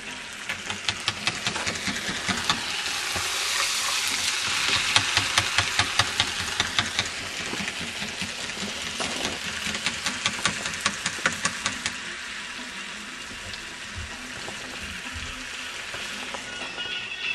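Chicken wings deep-frying in hot oil: a steady sizzle with many sharp pops and crackles. It swells over the first few seconds and eases off after about twelve seconds.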